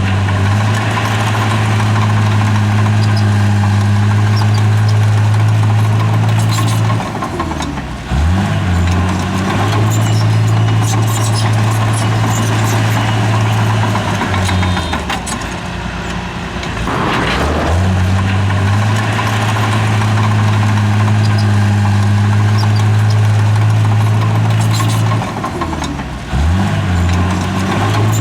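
Bulldozer's diesel engine working hard at steady revs, easing off and picking up again in short dips: about seven seconds in, for a few seconds around the middle, and again near the end.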